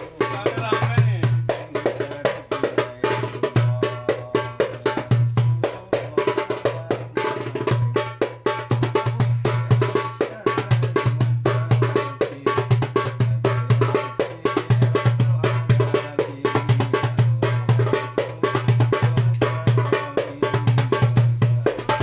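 9-inch darbuka with a Remo synthetic head played in a fast, dense rhythm: deep bass strokes that ring low, mixed with quick, sharp higher strokes.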